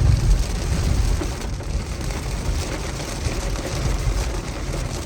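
Steady low rumble of a car's engine and road noise under a continuous hiss, a little louder in the first second.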